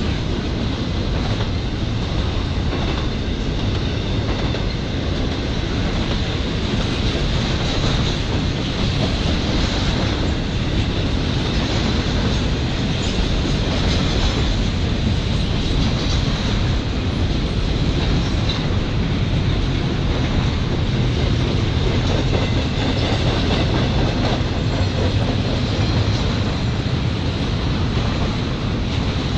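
Double-stacked intermodal container cars of a freight train rolling past: a steady rumble of steel wheels on rail, with irregular clacks.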